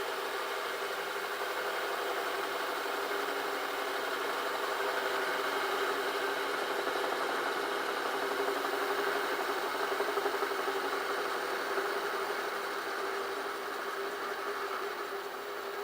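Metal lathe running steadily while a home-made ball turner cuts a piece of cast aluminium, a constant hum under a rough cutting noise that swells slightly midway.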